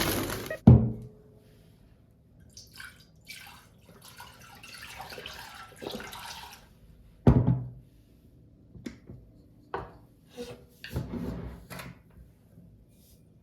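Scattered household handling sounds in a small room: short clinks, rustles and knocks, with two sharp knocks, one under a second in and the loudest about seven seconds in.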